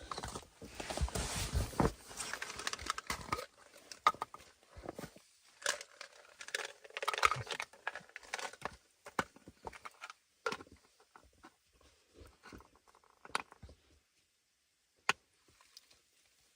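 Rustling and crinkling handling noise with scattered sharp clicks and knocks, busy at first and thinning out to a few isolated knocks in the last few seconds.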